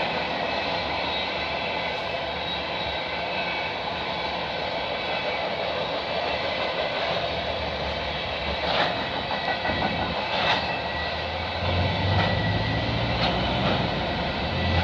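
Empty flat cars of a freight train rolling past at speed: steady wheel-on-rail noise with a faint high ringing, and a couple of sharp clunks about nine and ten and a half seconds in.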